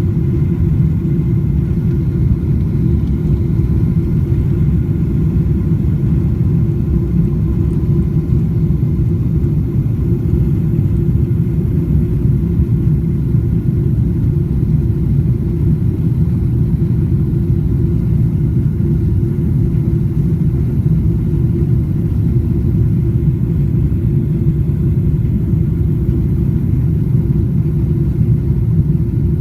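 Thai Airways jet airliner's engines and rushing air, a steady loud low rumble with faint steady whine tones above it, unchanging throughout.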